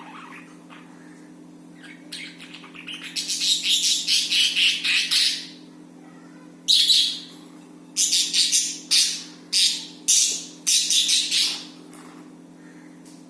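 Budgies chirping and squawking: a rapid chattering run of calls, then a string of separate harsh squawks, over a steady low hum.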